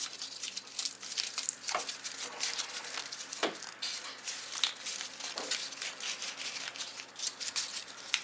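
Thick cardboard being handled and worked by hand: an irregular run of crinkles, scrapes and small snaps.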